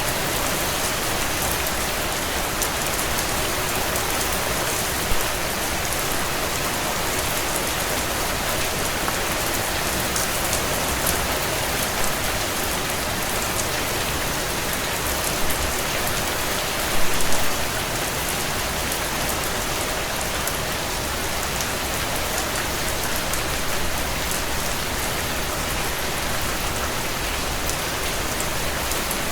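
Heavy rain falling steadily on a tin roof, an even hiss scattered with sharper drop hits, briefly louder about 17 seconds in.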